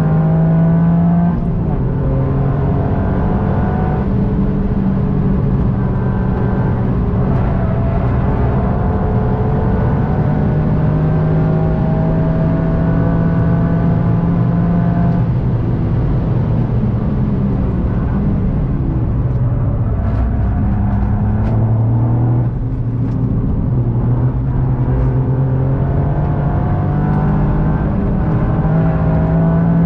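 Toyota GR Yaris's turbocharged three-cylinder engine pulling hard through the gears, its pitch climbing and dropping back at each upshift. About three-quarters of the way through it lifts off and the note falls, then it climbs again.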